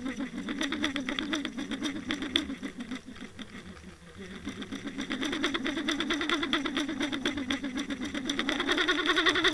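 Watercraft engine running, heard muffled through the housing of an underwater camera being towed behind it. The note sags and fades about three to four seconds in, then builds again.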